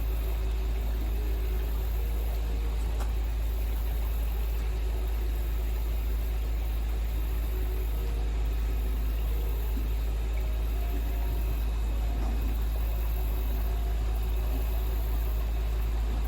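Steady rush of fast-flowing stream water, a constant noise with a strong low rumble.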